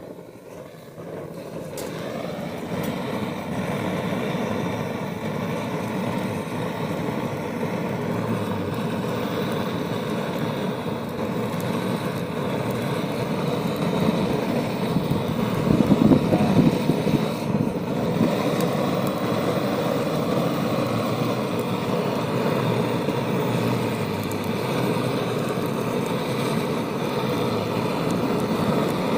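Gas torch flame used to light firewood, starting abruptly and building over the first few seconds to a steady, loud rush that holds.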